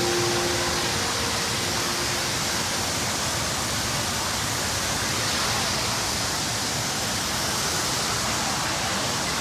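Steady rushing noise of wind and water on a moving boat, even throughout with no distinct engine note.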